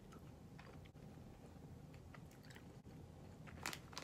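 Faint chewing of soft, chewy, sugar-coated candy sticks, with small wet mouth clicks and one louder click near the end.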